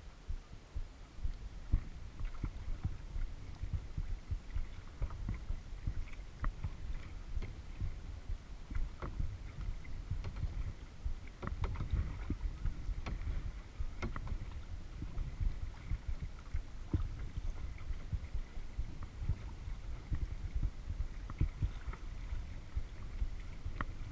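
Water knocking and sloshing against a kayak hull as it is paddled, as a dense, irregular low thumping through a GoPro's housing, with scattered sharp ticks and small splashes, more of them around the middle.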